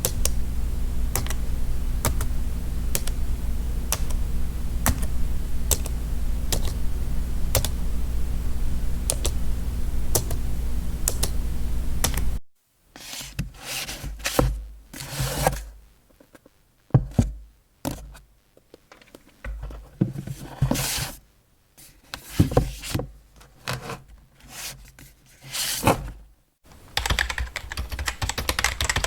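Slow typing on a computer keyboard, single key clicks about one or two a second over a steady low hum, cuts off about twelve seconds in. Then desk-organizing sounds follow: objects picked up, knocked and slid around on a desk, in irregular separate handlings. Near the end, fast keyboard typing begins, with rapid dense key clicks.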